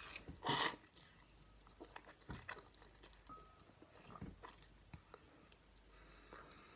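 A person eating spicy noodles: a short noisy burst about half a second in, then faint, scattered chewing and mouth clicks.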